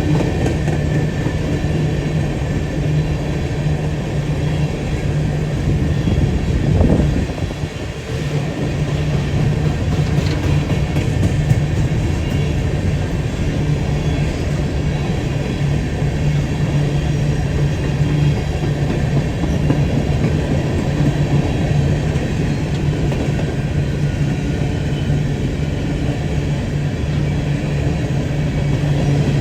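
Freight train's diesel locomotive running with a steady low hum. It swells briefly and then dips about seven seconds in.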